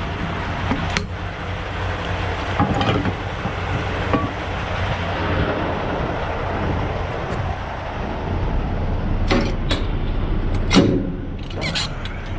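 Steady low engine rumble of an idling semi truck, with several sharp clanks in the last few seconds.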